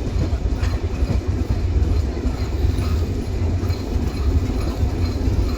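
Silk City Express passenger train running on the rails, a steady loud low rumble.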